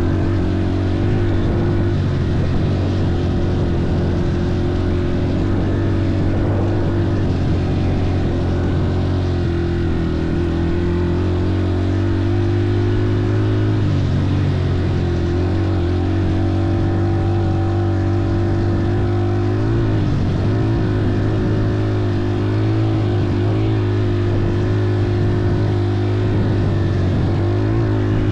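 An engine running at a steady speed throughout, its pitch wavering slightly a couple of times.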